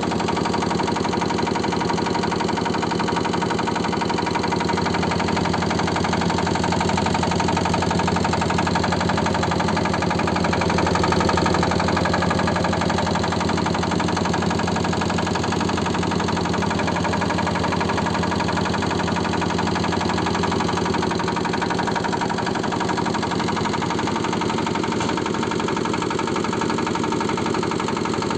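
Kubota KND250DI single-cylinder diesel engine running steadily at a constant speed.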